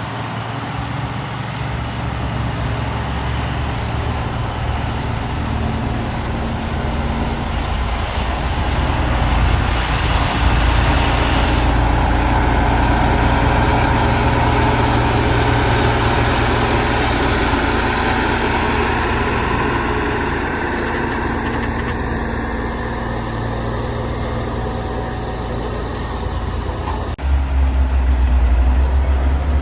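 Motor grader's diesel engine running steadily, growing louder about a third of the way in. Near the end the sound changes abruptly to a deeper, louder engine drone.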